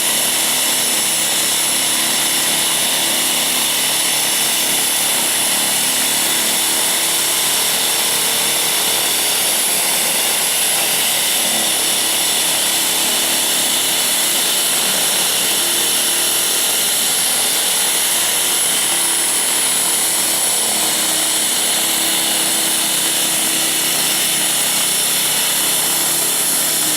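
Blizzard Ex1600win electric snowblower running steadily: a loud, even mechanical rush with a thin, high, steady whine from its motor.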